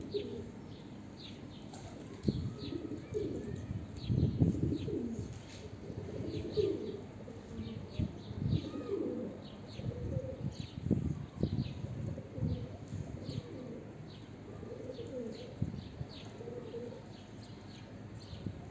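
Domestic pigeons, homing pigeons among them, cooing repeatedly, with occasional wing flaps and frequent short high chirps of smaller birds.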